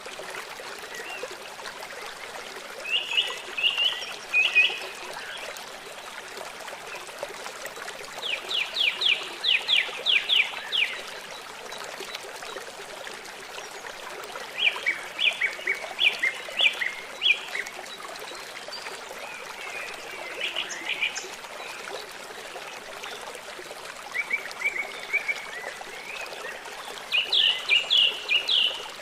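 Songbirds singing in short bursts of song, one a fast run of repeated notes, over the steady rush of running water from a stream.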